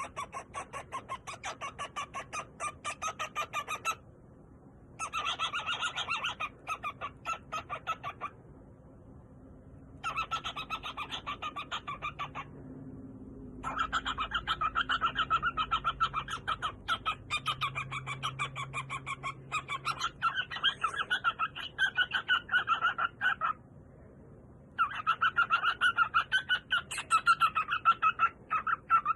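Cockatiel singing: rapid runs of short repeated chirps, in bouts of a few seconds broken by brief pauses.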